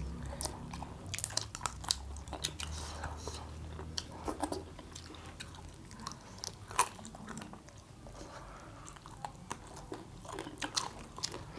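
Close-up mouth sounds of chewing and biting roasted quail, with irregular crisp crunches as the small bones crack between the teeth, one sharper crunch about seven seconds in.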